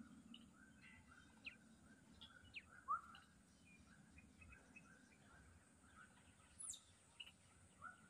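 Faint small birds chirping. One short rising note repeats about twice a second, with scattered higher chirps among it and a high falling whistle near the end.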